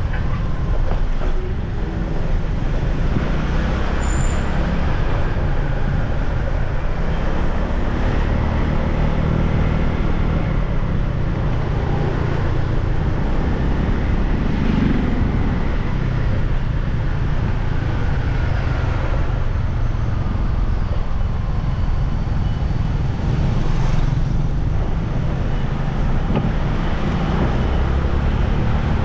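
Steady road noise from a motorbike ride through traffic: the bike's engine and tyre noise, heaviest in the low end, with other vehicles passing.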